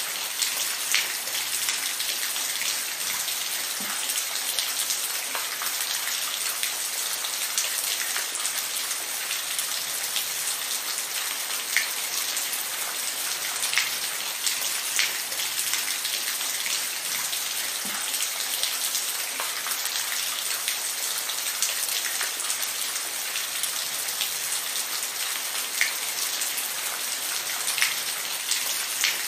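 Steady rain falling, an even hiss with the sharp ticks of single drops hitting a surface scattered throughout.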